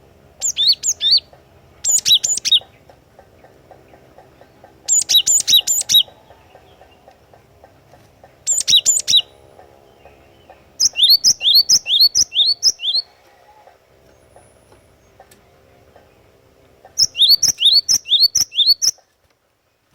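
Cinereous tit (gelatik batu) calling in about six bursts of rapid, high chirping notes with pauses of a second or more between them. The later bursts are runs of about eight quick sweeping notes, over a faint steady hum.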